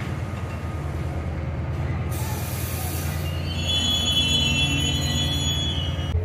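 A passenger train at a station platform: a steady low rumble, a short hiss about two seconds in, then a high-pitched wheel squeal on the rails from about three and a half seconds.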